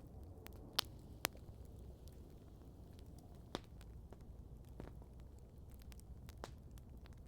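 Wood campfire crackling, with scattered small ticks and a few sharp pops: two loud ones about a second in and a smaller one about three and a half seconds in.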